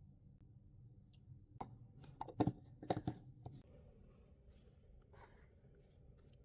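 A few light clicks and knocks of small objects being handled and set down, clustered between about one and four seconds in, with a brief soft hiss about five seconds in.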